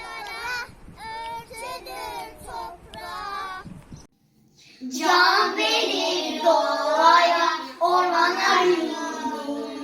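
Children singing. The singing breaks off briefly about four seconds in, then comes back louder.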